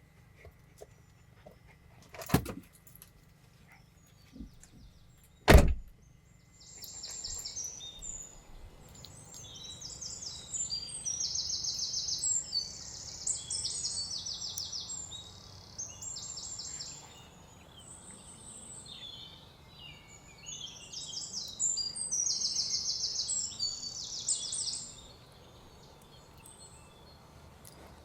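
Two sharp thuds, the second louder, a little over two and five seconds in. After them come bursts of high, rapid chirping trills, on and off for most of the rest.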